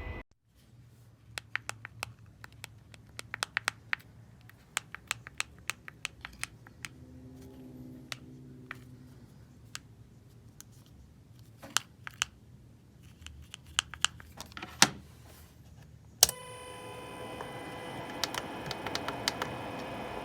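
Irregular runs of light, sharp clicks and taps, like typing on a keyboard. About 16 seconds in, one sharp click is followed by a steady fan hum with a thin whine.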